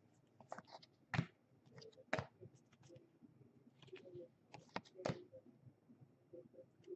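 Faint, scattered clicks and taps of baseball trading cards being handled and flipped through, with a few sharper taps about a second in, just after two seconds and about five seconds in.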